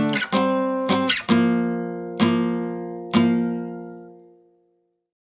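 Acoustic guitar strumming chords: a few quick strums, then single strums about a second apart, the last one ringing out and fading away.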